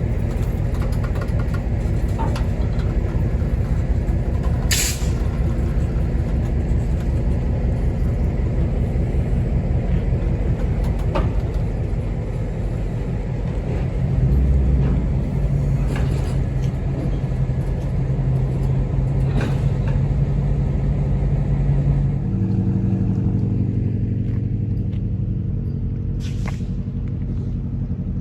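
Diesel locomotive engine running with a steady low rumble, its pitch and note changing about 22 seconds in, with a few sharp clicks over it.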